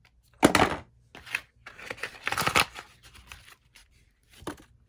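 Packaging being handled: a run of rustling and scraping bursts as items are pulled from the box, the loudest about half a second in and a longer rustle around two seconds in.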